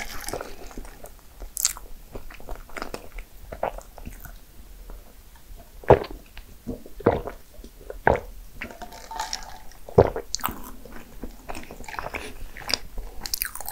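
Close-up mukbang eating sounds of a person biting and chewing soft desserts: irregular wet mouth clicks and smacks, with a few sharper bites, the loudest about six and ten seconds in.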